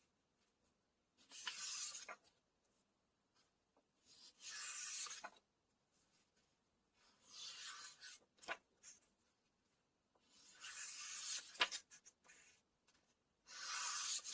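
Pages of a paper book being turned one at a time: five papery swishes, each about a second long and about three seconds apart, with a few small taps between them.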